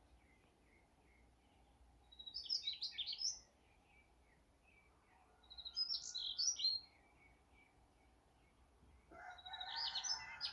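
A songbird singing three short, rapid, high chirping phrases a few seconds apart, with faint repeated chirps from another bird in between: morning birdsong.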